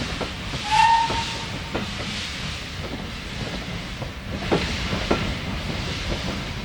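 Steam locomotive 30506, a Urie S15 4-6-0, hissing steam steadily, with a short whistle toot about a second in and scattered knocks.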